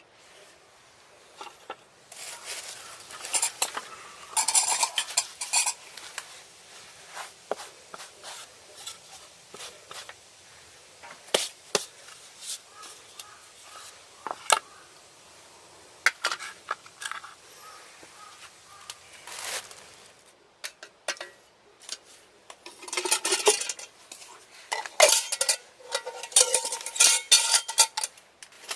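Metal cookware and utensils clinking and scraping in irregular taps and clatters, with louder stretches of handling about two to six seconds in and again near the end.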